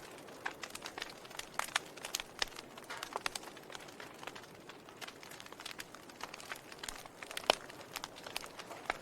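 Wood fire in a fireplace crackling, with irregular sharp pops and snaps over a faint steady hiss, the loudest pop about seven and a half seconds in.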